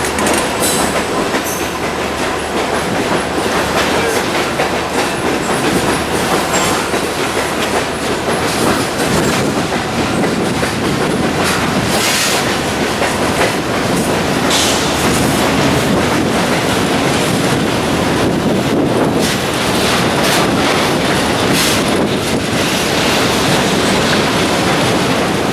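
Freight train cars rolling past on the rails in a steady, loud rumble, the wheels clicking over rail joints, with a brief high wheel squeal about halfway through.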